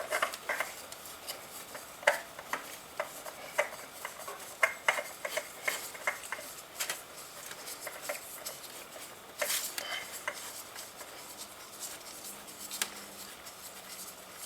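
Irregular light clicks, taps and scrapes of hard parts being handled: a new spin-on oil filter being fitted and screwed on by hand, with a few louder knocks about nine to ten seconds in.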